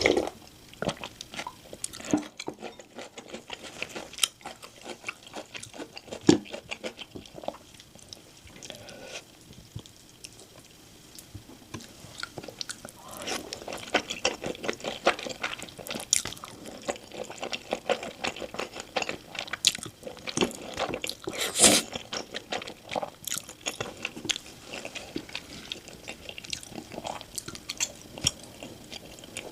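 Close-miked eating sounds: crisp, crackling bites and wet chewing, in irregular clusters.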